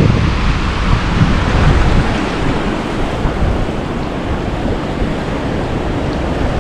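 Rough sea surf washing and breaking against the harbour shore, with wind buffeting the microphone, gusting harder in the first two seconds.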